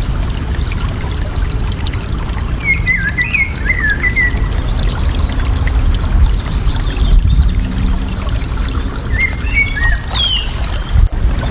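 Steady rush of flowing water, with a small bird twittering in two short runs of chirps, about three seconds in and again near the end.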